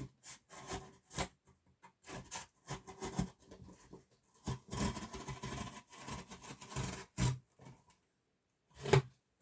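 A cardboard box being cut along a marked line around its bottom: irregular scraping and rasping strokes, one longer scrape about halfway through, and two sharp clicks in the second half.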